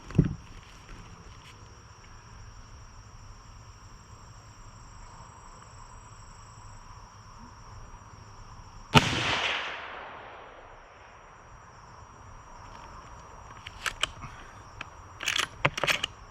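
Two gunshots about nine seconds apart. The first is a short, dull thump. The second is sharp and loud, with a long echo dying away over a second or more. A few short clicks follow near the end.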